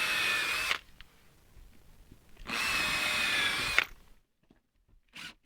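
Power drill-driver running in two short bursts, a steady motor whine each time, driving screws through siding boards into pre-drilled holes near the board edge.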